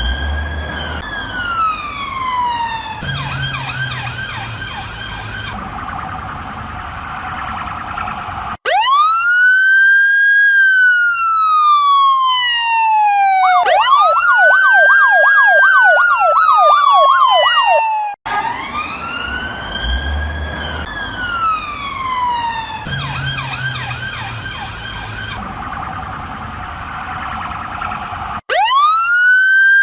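Electronic emergency-vehicle siren wailing in long rising-and-falling sweeps, switching to a fast yelp for a couple of seconds in the middle. The sound cuts off abruptly and restarts several times, with the same passage repeating.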